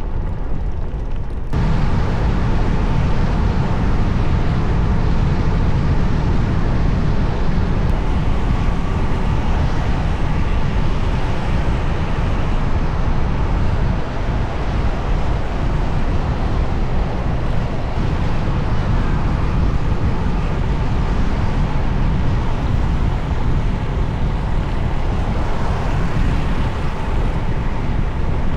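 Motorbike on the move: steady wind rush on the microphone over engine and road noise, growing suddenly fuller and louder about a second and a half in.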